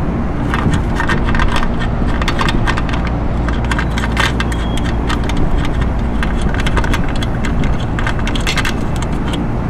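Irregular metal clicks and clinks of a hand socket wrench working bolts loose, one after another, over a steady low rumble.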